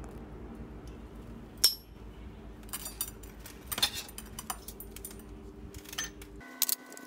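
Small metal parts clinking and clicking as they are handled, with one sharp click about two seconds in and a cluster of clicks a little later, over a steady hum that stops abruptly near the end.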